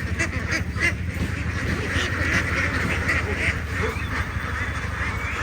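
A flock of farm ducks quacking in many overlapping calls, the chorus growing denser about two seconds in, over a steady low rumble.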